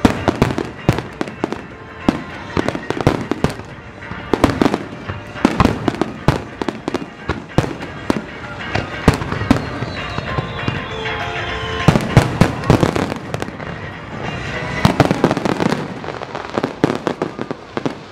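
Aerial fireworks shells bursting in rapid succession: a dense run of bangs and crackles that thins out in the middle and thickens again into a flurry near the end.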